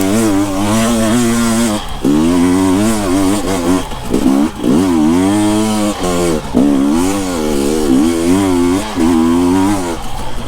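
Husqvarna TE 250i two-stroke dirt bike engine revving hard under load, its pitch rising and falling again and again as the throttle is worked on a hill climb, with a few brief drops as the throttle is chopped.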